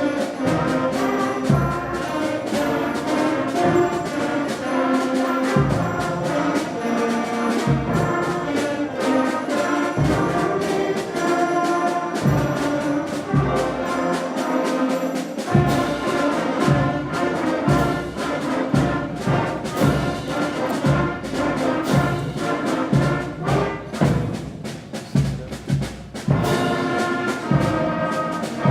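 A 5th and 6th grade school concert band playing, with brass carrying the tune over steady drum strokes. It softens briefly near the end, then comes back in full.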